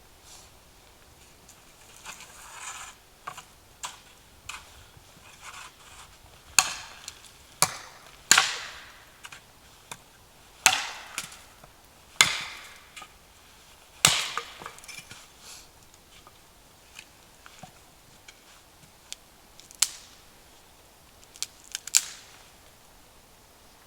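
Wood being chopped: sharp, irregular blows at uneven intervals, the loudest bunched between about six and fifteen seconds in, with a few more near the end.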